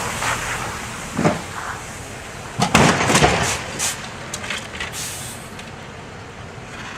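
Vehicle collision on a snowy road: a knock about a second in, then a cluster of loud impacts around three seconds in, followed by a few smaller clicks and rattles and a steady running noise.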